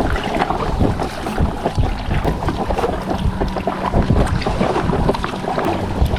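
Kayak paddle strokes and water splashing and lapping at the hull, with wind buffeting the microphone. A faint steady low hum runs underneath.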